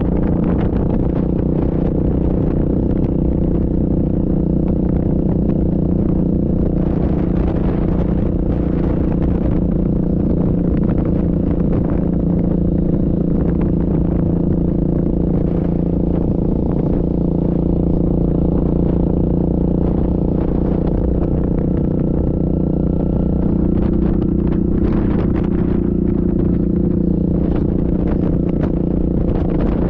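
Yamaha Grizzly ATV's single-cylinder engine running at a steady speed, with scattered short clatters and scrapes.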